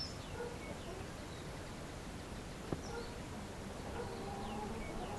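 Outdoor woodland ambience: small birds chirping now and then, short high calls, some falling in pitch, over a steady background hiss, with one sharp click a little past the middle.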